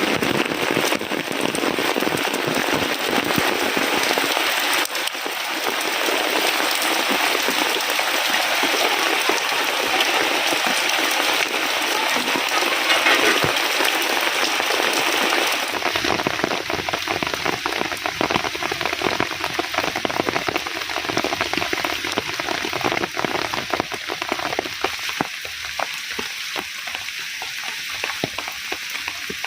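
Heavy rain falling in a dense, steady hiss of drops, its sound changing abruptly about five and sixteen seconds in.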